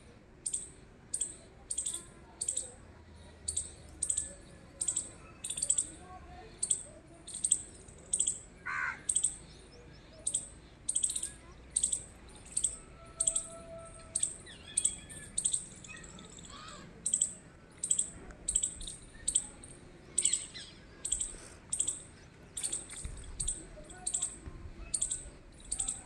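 A small bird's short, high chirp, repeated about twice a second.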